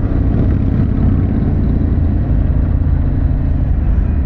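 Harley-Davidson Pan America's Revolution Max 1250 V-twin running steadily through a Vance & Hines exhaust, a dense low rumble.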